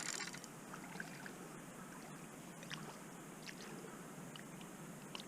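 Faint steady rush of a small river's flowing water, with a few faint ticks.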